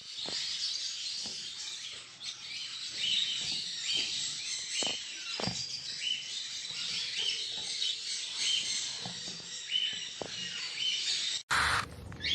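Many birds chirping at once: a dense twittering with short calls repeated over and over. Near the end it cuts abruptly to a brief loud rush of noise.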